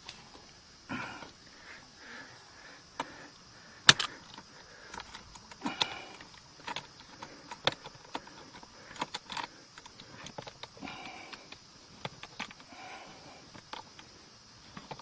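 Scattered metallic clicks and knocks from handling an outboard motor's mounting and adjusting parts, the sharpest knock about four seconds in, with soft rustling between.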